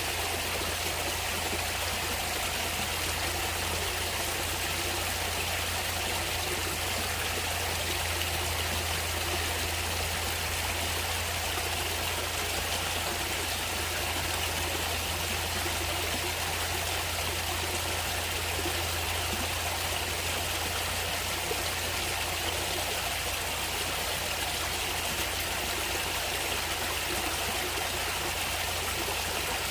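Natural stream water flowing and trickling steadily, with a low rumble underneath.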